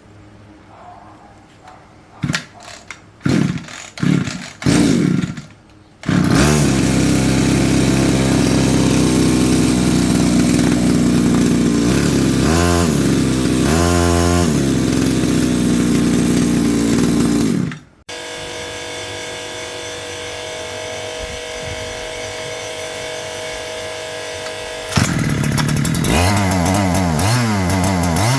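Small petrol engine after repair: a few short bursts as it is started, then about six seconds in it catches and runs loud at high speed with a couple of quick rev dips. Partway through it drops abruptly to a lower steady hum, and near the end it is revved up again, the pitch rising and falling.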